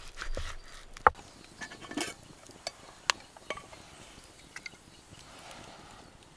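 Camp cookware and utensils being handled: scattered light knocks and clinks, the sharpest about a second in and another about three seconds in, with smaller ticks after.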